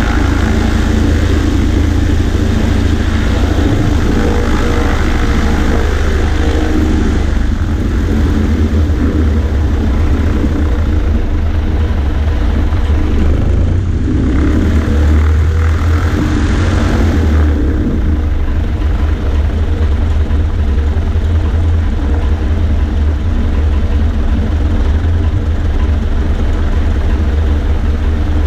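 Cessna 140A's light piston engine and propeller droning steadily in flight, heard from outside the cabin, with a brief shift in tone about halfway through.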